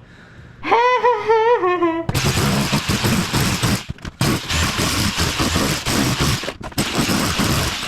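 A person hums a short wavering tune, then a Bosch Bulldog Max SDS-Plus rotary hammer with a tile chisel bit starts hammering at tile and cement board. It is a loud, rapid pounding that pauses briefly twice.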